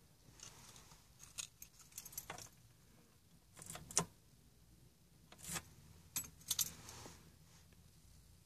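Keys on a key ring jangling in several short bursts, with one sharp click about four seconds in.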